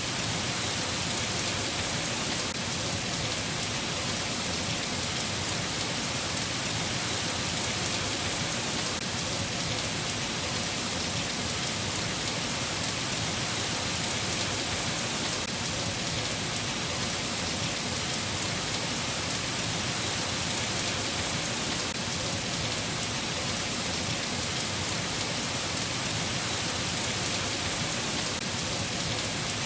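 Steady rain falling, an even hiss of many drops with no lulls or surges.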